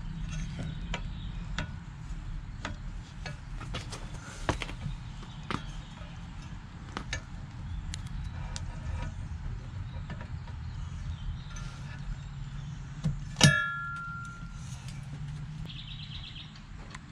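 Small metal parts and tools clicking and clinking as outboard propeller hardware is handled, with one loud ringing metallic clang about three-quarters of the way through. A steady low rumble runs underneath.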